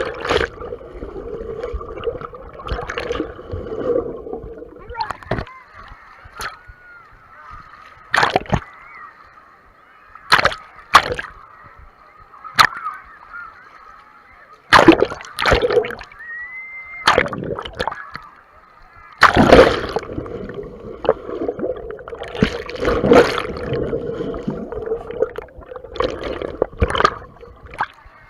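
Water sloshing and splashing around a GoPro in its waterproof case, heard muffled through the housing: a string of sudden loud splashes with churning water between them.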